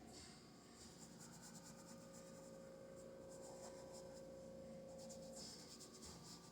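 Faint scratchy strokes of a paintbrush dabbing and brushing acrylic paint on canvas, in quick runs, with a faint steady hum underneath.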